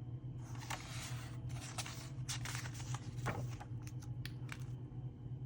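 Paper rustling and soft crinkles as a book page is handled and turned, over a faint steady low hum.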